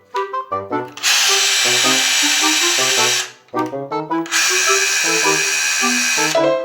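Makita HR244D hammer drill running in two bursts of about two seconds each, with a short pause between them, over background music with a clarinet melody.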